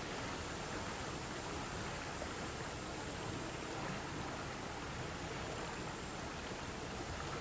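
Shallow stream flowing, a steady rush of running water.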